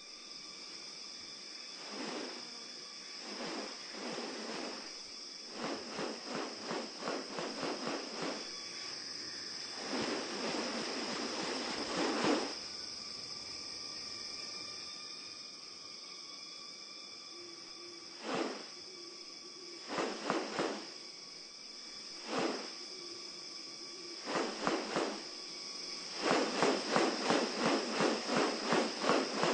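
Rainforest insects droning with a steady high buzz. Over it come repeated bursts of rapid rattling pulses, a dense run of them near the end.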